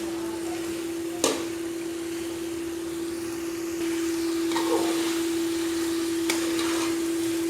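Chicken kofta curry frying and being stirred in a pot, over a steady hum, with a sharp spoon knock on the pot about a second in and another near the end.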